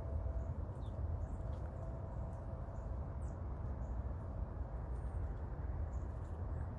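Outdoor background: a steady low rumble, with short faint high chirps and one brief whistle from small birds scattered through it. No pecking or drumming stands out.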